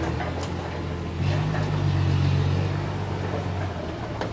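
An engine running steadily with a low hum. It gets louder about a second in and eases off again near the end.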